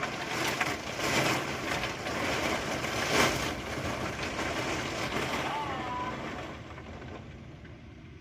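Thunder: a sudden crash followed by a rolling rumble with several louder peaks, fading away over the last couple of seconds.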